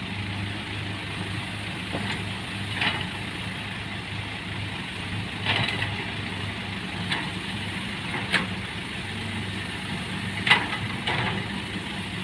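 Heavy vehicle engine idling steadily, with several short, sharp hissing bursts over it, about six in all.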